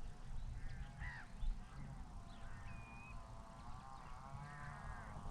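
Birds calling: short high whistled notes and longer wavering calls that grow stronger in the second half, over a low rumble.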